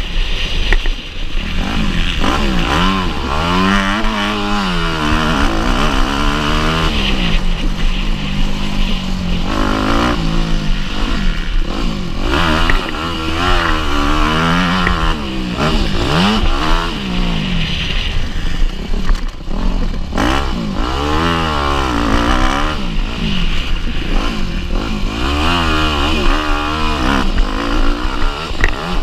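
Motocross bike engine under race load, revving up and dropping back over and over as it shifts and backs off between straights and corners.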